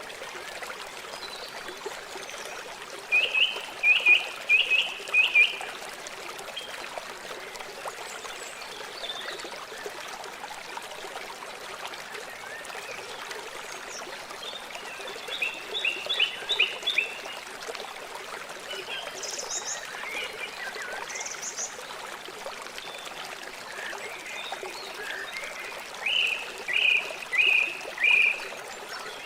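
River water flowing steadily, with three runs of five or six quick, sharp chirping calls from an animal, each run louder than the water, plus a few fainter high chirps between them.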